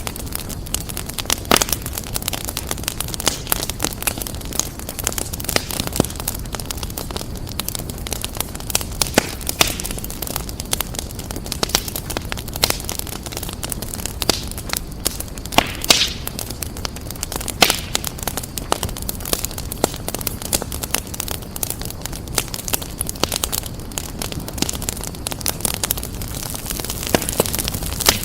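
Fireplace fire crackling steadily: a dense run of small snaps and ticks over a low rumble, with a few louder pops scattered through, the sharpest about halfway through.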